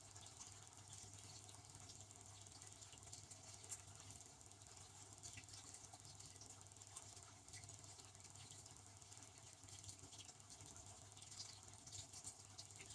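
Devanti benchtop dishwasher running, faint: water spraying and pattering inside the tub with many small ticks over a low, steady pump hum.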